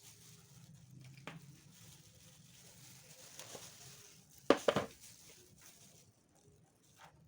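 Small handling noises as pieces are arranged by hand in a resin mold: light rustling over a faint steady hiss, one tap about a second in and a quick cluster of sharper taps, the loudest sound, past the middle.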